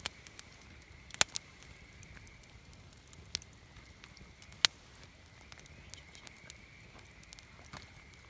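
Wood campfire crackling, with irregular sharp pops of burning wood; the loudest come about a second in and just past the middle.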